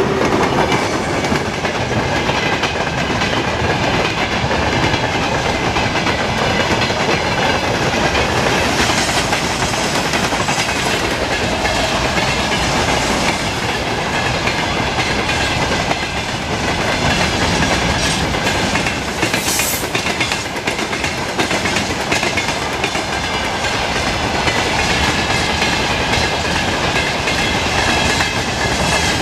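Freight train rolling through at speed, wagon wheels clattering steadily over the rail joints. A brief high-pitched squeal comes about two-thirds of the way in.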